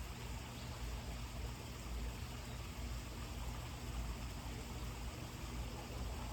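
Steady outdoor background noise: an even hiss over a low, fluctuating rumble, with no distinct events.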